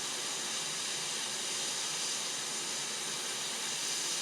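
Hot-air rework station blowing a steady hiss of hot air, reflowing a MOSFET onto a laptop motherboard.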